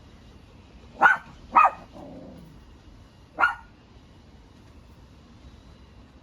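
A dog barking three times: two quick barks about a second in, then a single bark about two seconds later.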